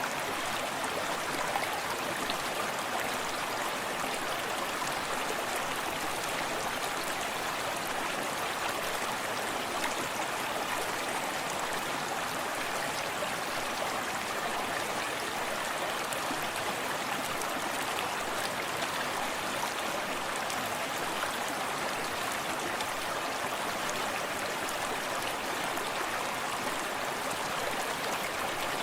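Forest stream running steadily, water splashing and gurgling over stones, with a small waterfall behind.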